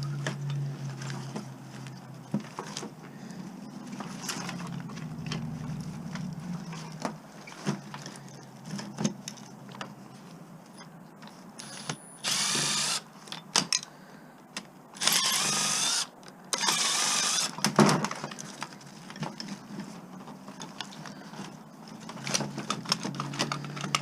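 A power drill runs in three short bursts of about a second each, its whir wavering in pitch, most likely backing out screws while a device is scrapped. Clinks and knocks of metal parts being handled run throughout, with a sharp knock just after the last burst.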